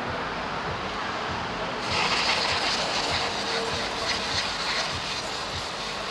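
Aerosol brake cleaner spraying: a steady hiss starts suddenly about two seconds in and keeps on, over a low background hum.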